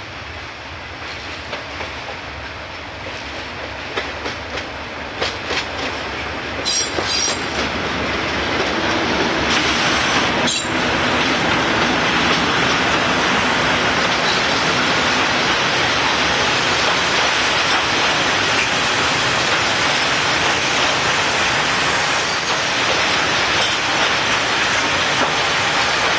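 Diesel-hauled freight train of china clay tank wagons, growing louder as the locomotive approaches and passes about ten seconds in. The long rake of loaded tankers then rumbles steadily past with the clickety-clack of wheels over rail joints and a brief faint high squeal near the end.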